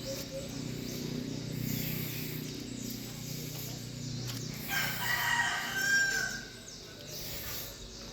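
A rooster crowing once, a call of about a second and a half starting about five seconds in, over a low steady background sound.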